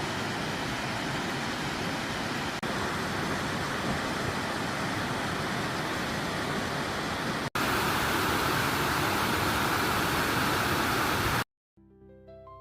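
Steady roar of a large waterfall, cut between shots twice. It stops abruptly near the end, and soft piano music begins.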